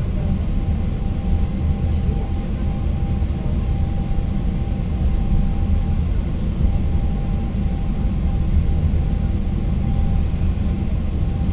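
Electric multiple unit (ŁKA 36WED) running along the line, heard from inside the passenger saloon: a steady low rumble with a thin steady tone above it.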